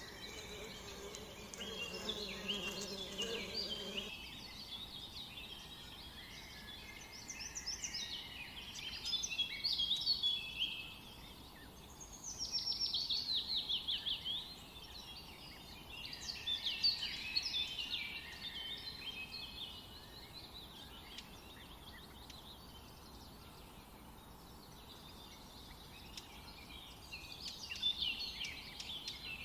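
Songbirds chirping and singing in repeated phrases, including a fast falling trill. A buzzing insect is heard until about four seconds in.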